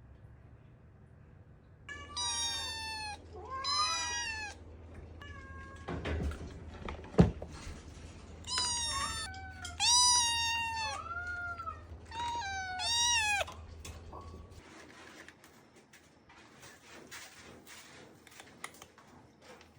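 Domestic cat meowing repeatedly, about seven meows between two and fourteen seconds in, several of them long and falling in pitch. A single sharp knock about seven seconds in is the loudest sound.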